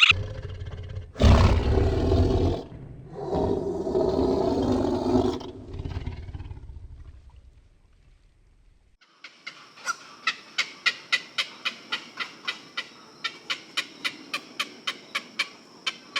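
A big cat roaring: long, low, rough calls over the first six seconds. After a short lull, a different sound begins: a quieter run of short, sharp, high calls, about three a second.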